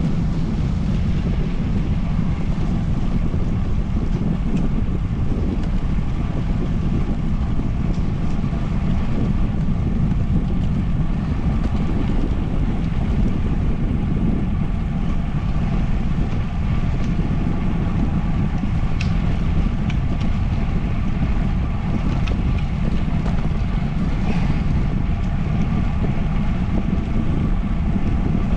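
Wind buffeting the microphone of a camera carried on a moving bicycle: a steady low rumble with a faint even hum above it.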